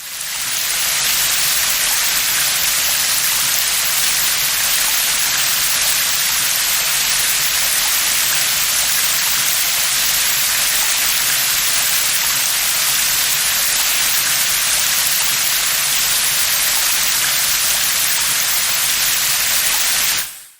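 Steady rain falling, an even hiss that fades in at the start and cuts off suddenly near the end.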